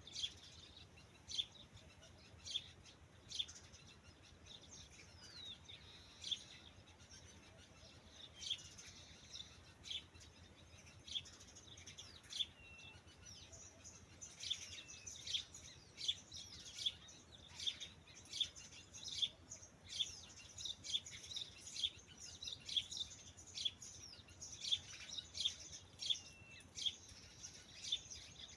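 Birds chirping: many short, high calls with quick pitch sweeps, coming more thickly in the second half.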